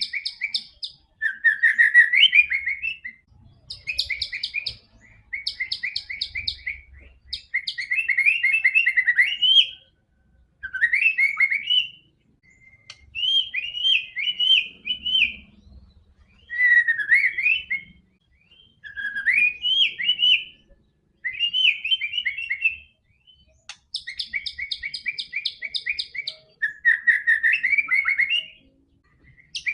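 White-rumped shama (murai batu) singing: about a dozen varied song phrases, each one to three seconds long with short pauses between, mixing fast trills of repeated notes with rising and falling whistles.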